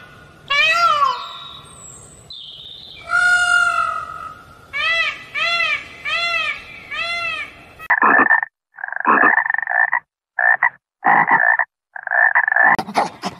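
Male Indian peafowl calling: a rising-and-falling cry, a longer call, then four short arched calls in quick succession. From about eight seconds in, a frog croaks in about five separate bursts with short gaps between them.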